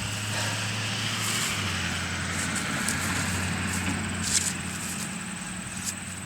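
A steady low motor hum, with rustling and a few small knocks from hands digging through soil and potato plants.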